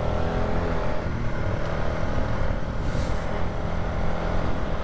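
Polaris ATV engine running at a steady pitch while riding along a dirt trail.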